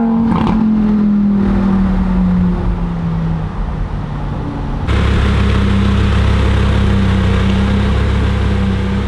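Car engine note sinking slowly as the revs drop over the first few seconds. About five seconds in it switches abruptly to a steady, loud engine drone with a hiss over it.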